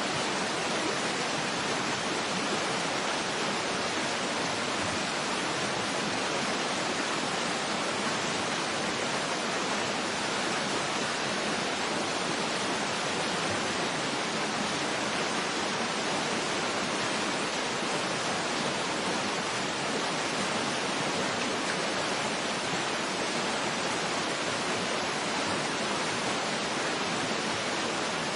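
Waterfall ambience: a steady, even rush of falling water that does not change.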